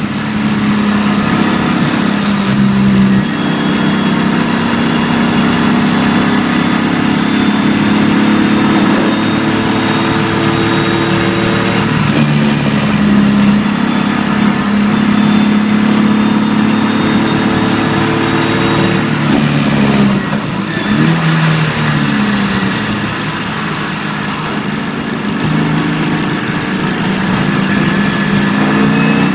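BMW E46 325ti Compact's 2.5-litre straight-six running hard at track speed, heard from inside the cabin. The engine note steps up and down in pitch several times, dips about two-thirds through, then climbs again near the end.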